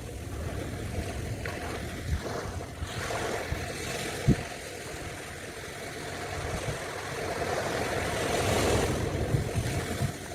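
Ocean waves washing onto the beach, one surge building about eight seconds in, with a few low thumps from wind buffeting the microphone.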